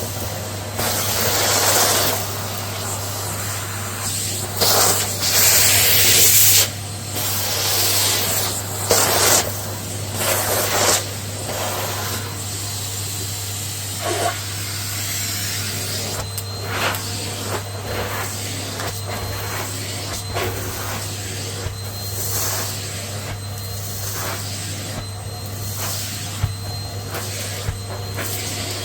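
Vacuum cleaner running with a steady motor hum. Its suction rises into louder bursts of rushing air several times in the first eleven seconds, then carries on with short clicks and rattles.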